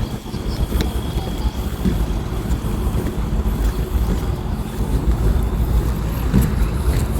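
Wind buffeting the microphone in an uneven low rumble, with a faint steady high-pitched tone underneath.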